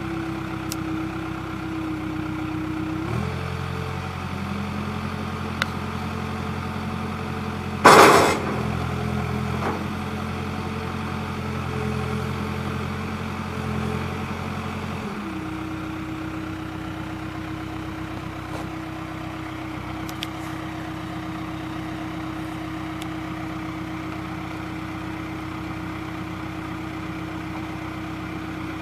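New Holland B95B backhoe loader's diesel engine idling. About three seconds in it rises to a higher, steady speed and holds it. A single loud clank comes near eight seconds, and the engine drops back to idle about fifteen seconds in.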